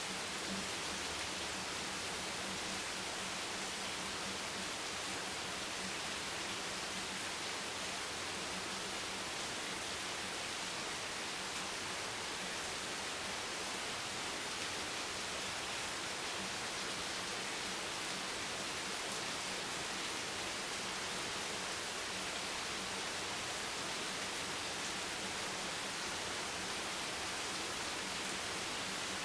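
Steady rain, a continuous even hiss with no single drops or other events standing out.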